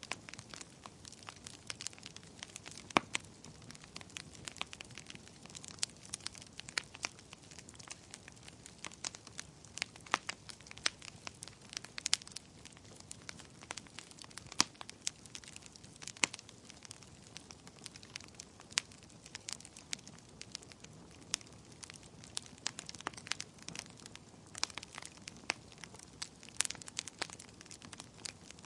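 Wood fire burning and crackling, with many sharp, irregular pops and snaps over a soft low hiss.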